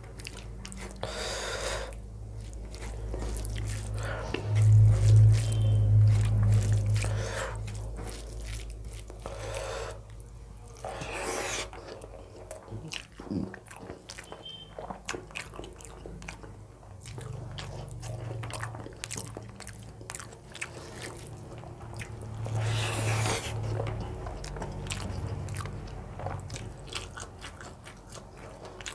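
A person chewing and biting into a meal of rice, dal, bean fry and fried eggplant, picked up close to the microphone, with many short mouth and food clicks throughout. A louder low rumble comes about five seconds in and again near the end.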